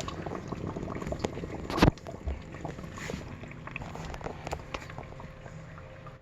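Samsung DW80K5050 dishwasher running, with a steady whooshing of water and many small clicks, and one loud knock about two seconds in. The uploader traced the whooshing to the wash motor: a failed shaft seal let water drip down the shaft and rust its bearings until they began to seize.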